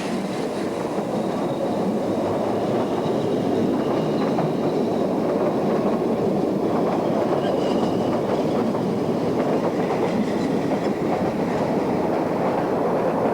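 A train running on the rails: a steady rumbling and rattling noise, with faint high whining tones a few times.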